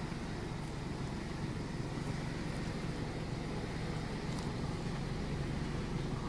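Automatic car wash machine working over the car, heard from inside the car's cabin: a steady hiss of spray with a low hum underneath.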